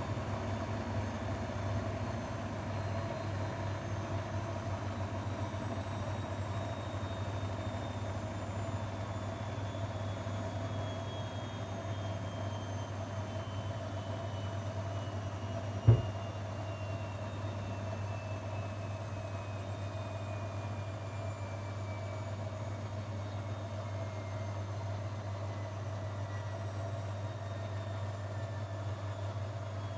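Grundig washing machine running steadily, its motor whine falling slowly in pitch as the drum spins down near the end of the programme. A single sharp click comes about halfway through.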